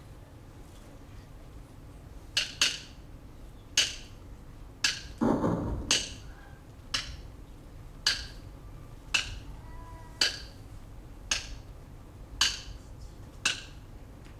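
Sharp wooden knocks, evenly spaced about one a second and starting a couple of seconds in, with a brief low rumble of voices or movement around five seconds in.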